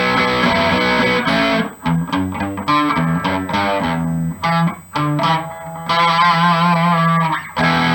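G&L Legacy Tribute electric guitar with a Seymour Duncan Little '59 mini humbucker in the bridge position, played through an amplifier in short phrases of chords and single notes, with brief breaks between phrases and a note bent or shaken with vibrato near the end.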